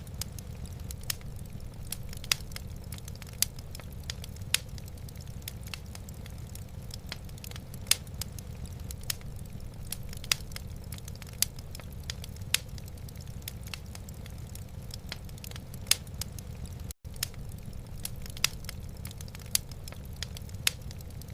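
Wood fire in a fireplace crackling, with irregular sharp pops about once or twice a second over a steady low rumble. The sound drops out for an instant about seventeen seconds in.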